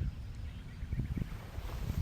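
Low, uneven rumble of wind buffeting the microphone, with a few faint high bird chirps.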